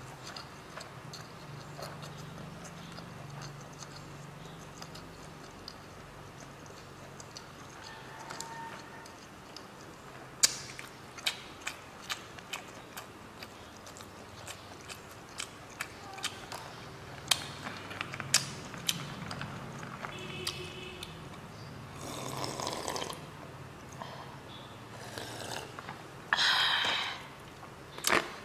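Close-miked chewing of a mouthful of instant noodles, with soft wet mouth clicks and smacks scattered throughout. Two longer, louder breathy noises come in the last few seconds.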